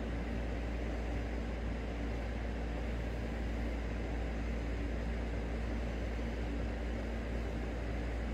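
Steady low hum with an even hiss and a few faint steady tones, unchanging throughout: background machine noise, like a fan or air conditioner running in the room.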